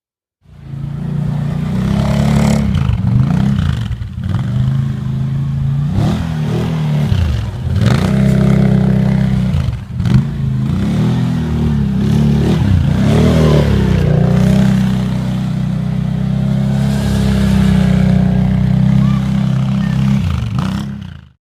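A vehicle engine running and revving up and down over and over, with some clatter. It starts and cuts off abruptly.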